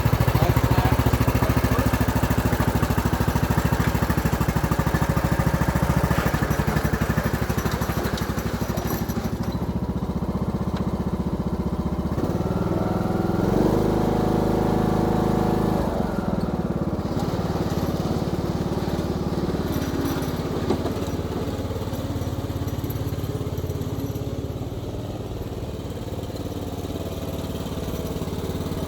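Craftsman YTS3000 riding mower's engine running while the mower is driven around, its note changing about halfway through. It runs after a valve adjustment, which the owner thinks was the whole problem behind the supposed rod knock.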